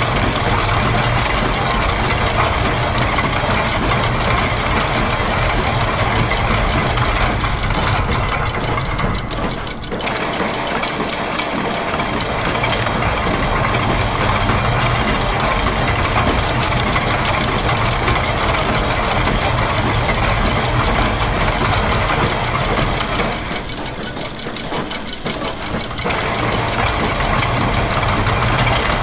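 Layered, looped factory machine sounds: rapid mechanical clicking and ratcheting over a steady low machine hum, dense and continuous. The mix thins briefly twice, about eight seconds in and again near twenty-four seconds, as some layers drop out.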